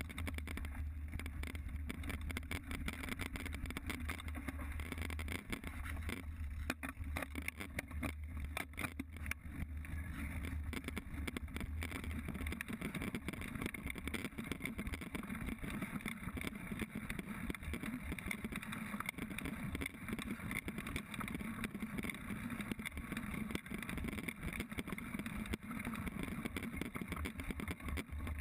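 Mountain bike ridden along a dirt trail, heard from a GoPro on the rider or bike: a steady rush of wind and tyre noise, with sharp rattling clicks from the bike over bumps. There is a heavy low rumble for about the first half.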